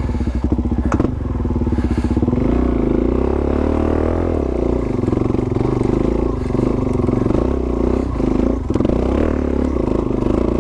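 Dual-sport motorcycle engine running under load, the revs rising and falling as the bike is ridden slowly over a rough, loose trail.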